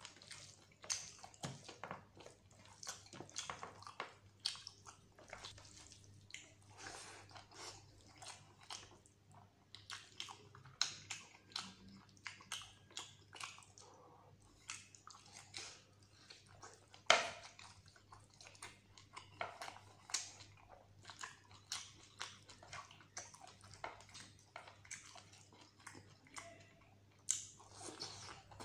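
Close-miked chewing and wet lip-smacking of a person eating mutton curry and rice by hand, with many short smacks and one sharply louder smack about 17 seconds in.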